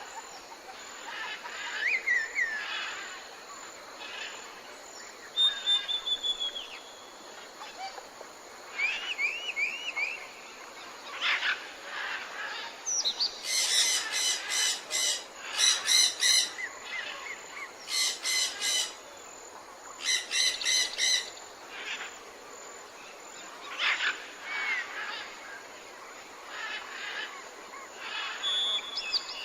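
Several tropical birds calling and singing: short whistled chirps and glides, some sweeping upward in pitch. Midway come four bouts of harsh, rapidly repeated notes, the loudest calls here.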